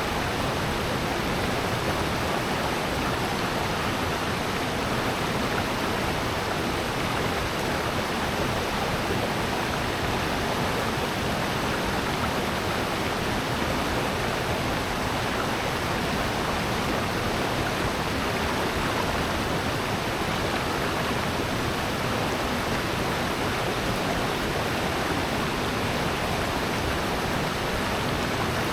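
Rushing water of a valley stream and its falls: a steady, even wash of water noise that does not change.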